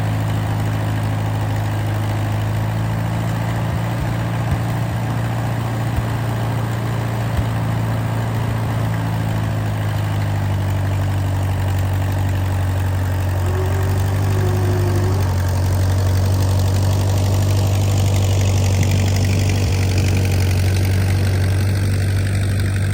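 Allis-Chalmers WD tractor's four-cylinder engine running steadily at a constant speed.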